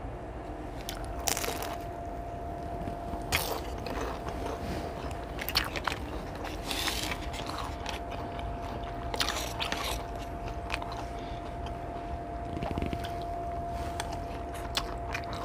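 Close-miked eating: a person biting and chewing food, with scattered crunchy bites and wet mouth clicks.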